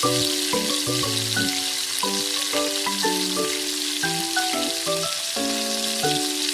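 Dolsot bibimbap sizzling in a hot cast-iron ttukbaegi: a steady, dense crackle as the rice crisps against the heated pot bottom. Background music with a melody of sustained notes plays over it.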